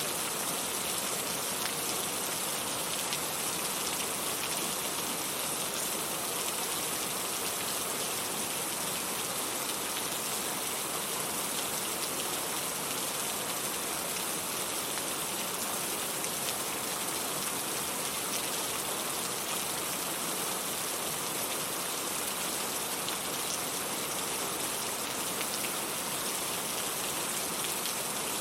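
Steady rain falling, an even hiss of many drops landing on a surface.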